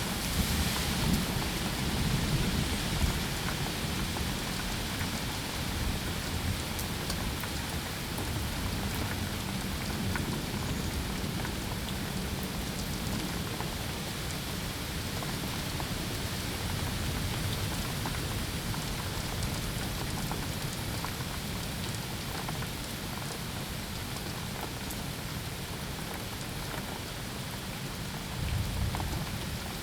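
Steady rain falling on a surface, with low rumbles of thunder in the first few seconds and again near the end.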